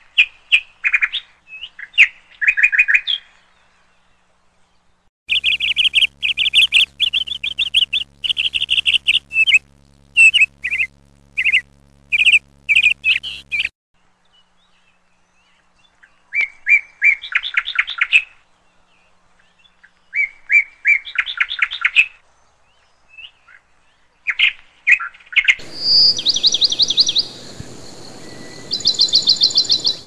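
Birds chirping in short bursts of rapid, trilled notes, the bursts coming every few seconds with quiet gaps between. A steady low hum sits under the chirping for a stretch in the middle.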